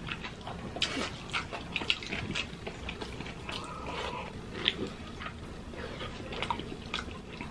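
Close-miked chewing and wet mouth smacks as two people eat the last pieces of hotdog and scrambled egg by hand, with short clicks scattered throughout. A sip from a coffee mug comes about halfway through.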